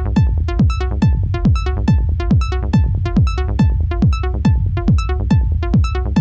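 A techno loop playing back: a four-on-the-floor kick drum with a falling pitch about twice a second over a low rumbling bass, with short sequenced synth notes between the kicks.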